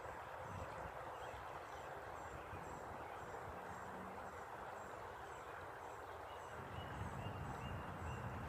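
A bird giving a long, evenly spaced series of short, high, thin chirps, about two a second, which the walker takes for a baby bird calling. A second, lower chirping joins in about six seconds in, over a steady background hiss.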